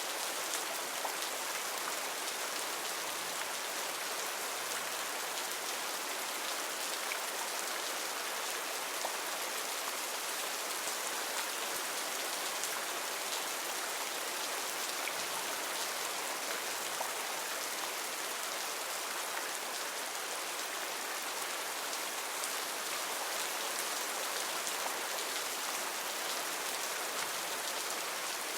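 Heavy rain falling steadily in a rainforest, a dense hiss of drops with small patters of individual drops on leaves.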